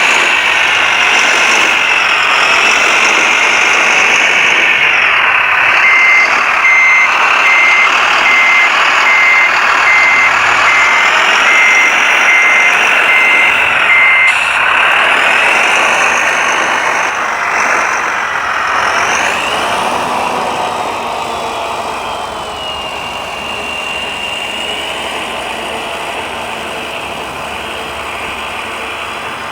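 Several whining electric motors and hydraulic pumps of 1:14 scale RC construction models, their pitch rising and falling as the machines work. A reversing beeper sounds about a dozen short even beeps between about 6 and 14 seconds in, and the whine grows quieter in the last third.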